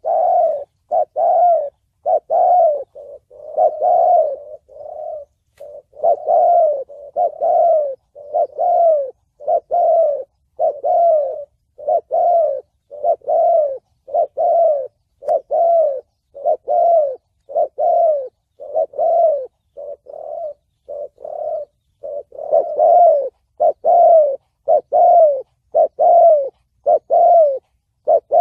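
Spotted dove cooing in the 'thổ bầu' voice prized by Vietnamese dove keepers, a run of short rounded coos repeated about two a second with a few brief pauses. It is a call used to rouse decoy doves and lure wild ones to traps.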